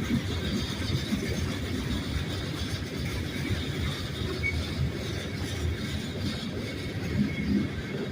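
Loaded rock train of a Union Pacific freight rolling past, a steady rumble of heavy car wheels on the rails with no let-up.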